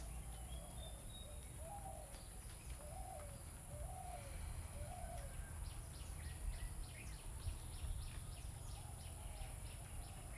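Birds calling: four short, humped low calls about a second apart, then a quick, even run of high chirps from about halfway through, over a faint low hum.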